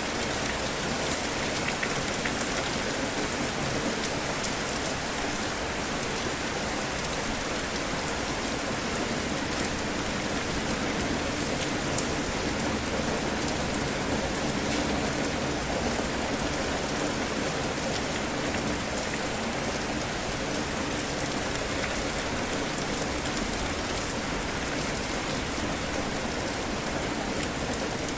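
Steady rain falling on a surface, a continuous even hiss with scattered drop ticks.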